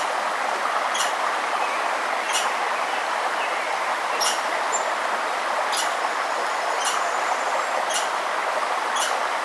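Steady rush of flowing stream water, with a bird's short, sharp call notes repeating roughly once a second. A thin high whistle sounds briefly about five seconds in.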